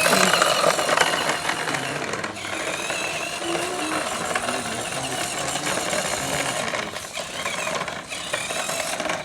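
Mini tractor running under load with a steady, rapid rattling clatter.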